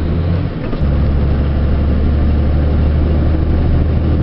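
Semi truck's diesel engine running, a steady low drone heard from inside the cab; about a second in there is a faint click and the engine note shifts to a new steady pitch.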